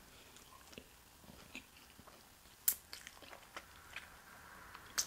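Close-miked chewing of a bite of fried food: quiet mouth noises with scattered small clicks and lip smacks, the sharpest about two and a half seconds in and again near the end.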